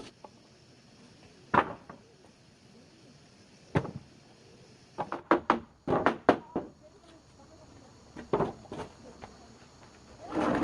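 Irregular knocks and clunks, about a dozen, several coming in a quick cluster midway, with quiet between them.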